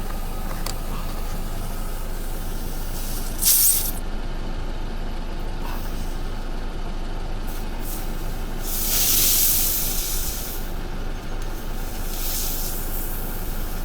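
Air hissing from a punctured car tyre under repair, in three bursts: a short one and two longer ones, over a steady low hum.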